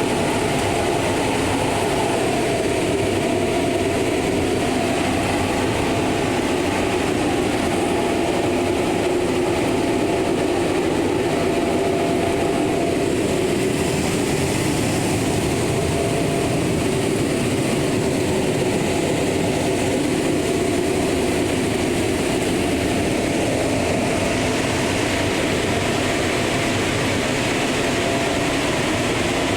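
Automatic car wash equipment running with a loud, steady rush of noise and a faint steady whine.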